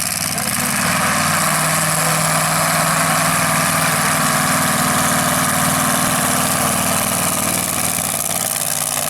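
Mud-bog mega truck's V8 engine idling steadily, close by.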